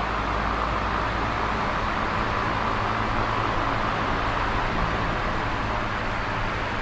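Electric fan running steadily: an even whooshing of moving air with a low motor hum underneath.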